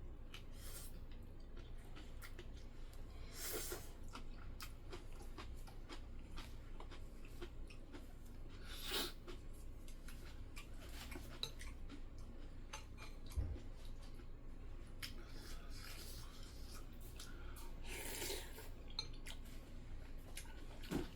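Eating sounds at a table: chewing with scattered small clicks and clinks of utensils against bowls and dishes, over a steady low hum.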